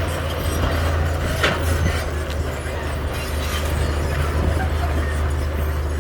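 Heavy diesel earthmoving machinery running steadily with a deep engine drone, over metallic clanks and rattles, one sharper clank about one and a half seconds in.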